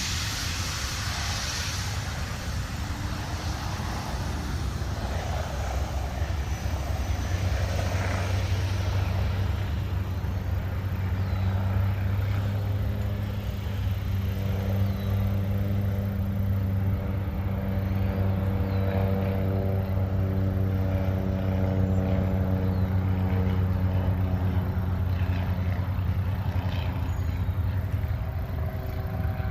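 An engine running steadily with a low, even hum that grows stronger about a quarter of the way in and then holds.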